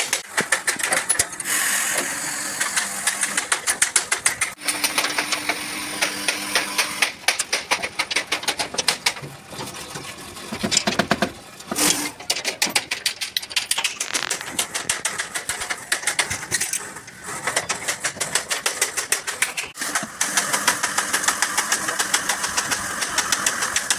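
Rapid, even run of sharp taps on metal, many a second, from dent-repair work on a truck cab's sheet metal, stopping briefly a few times.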